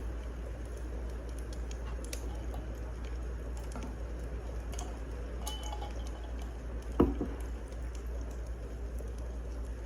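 Wood fire crackling: scattered sharp pops and ticks over a steady low rumble, with one louder thump about seven seconds in.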